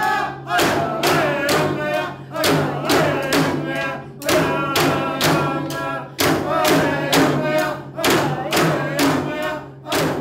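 Traditional Eskimo drum-dance song: voices chanting in phrases about two seconds long, each opening with a sharp stroke of a frame drum, in a steady repeating rhythm.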